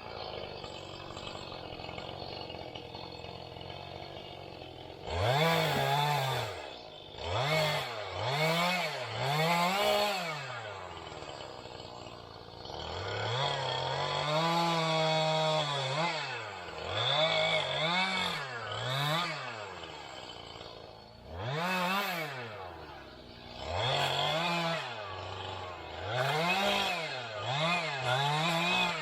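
Two-stroke chainsaw running low for the first few seconds, then revved up and down again and again, with one longer stretch held at high revs midway.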